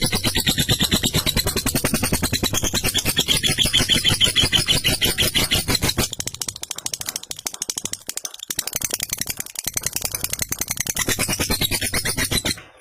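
Lovebird 'ngekek': a long, very fast rattling chatter of repeated notes. It weakens for a couple of seconds midway, then picks up again and cuts off abruptly near the end.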